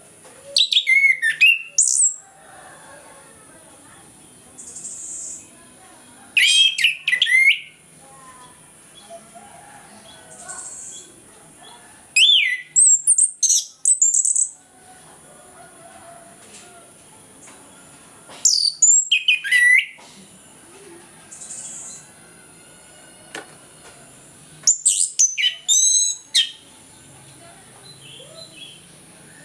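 Orange-headed thrush (anis kembang) singing full song. Five loud phrases of quick, varied, rising and falling whistles come about six seconds apart, with a few soft short notes between them.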